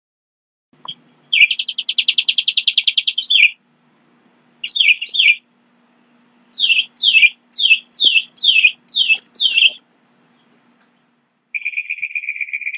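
A songbird calling loudly and close by: a fast trill, a quick pair of notes, then a run of sharp down-slurred whistled notes about two a second, and a buzzy trill near the end.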